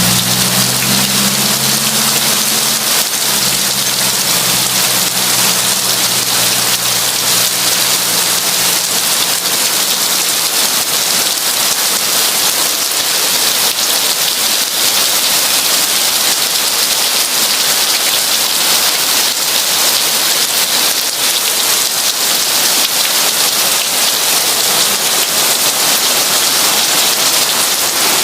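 Heavy rain falling in a steady, dense downpour. A low rumble underneath dies away over the first few seconds.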